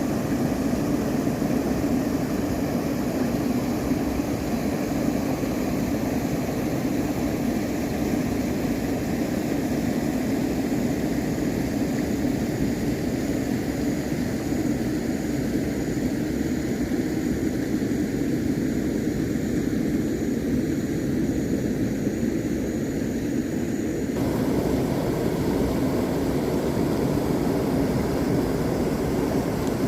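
Steady, unbroken motor rumble with wind-like noise. The sound changes abruptly about 24 seconds in.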